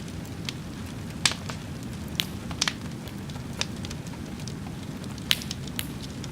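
Wood fire burning with a steady low rush and irregular sharp crackles and pops, a few of them loud.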